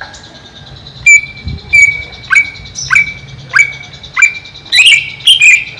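Greater green leafbird (cucak ijo) calling: a run of about eight loud, sharp, repeated notes, roughly one every 0.6 s, starting about a second in and growing busier near the end, over a faint steady high whine.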